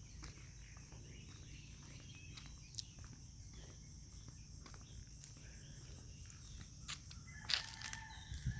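Steady high-pitched insect chorus over a low background rumble, with a few scattered faint clicks and one sharper knock about seven and a half seconds in.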